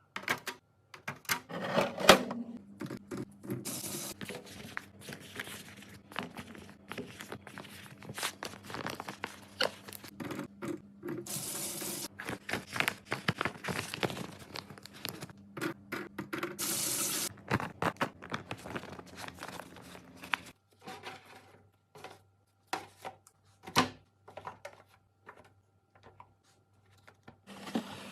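Groceries and packaging being handled: plastic crinkling and tearing in a few longer hissy bursts, with many small knocks and clicks of items being set down, over a steady low hum that shifts lower about two-thirds of the way through.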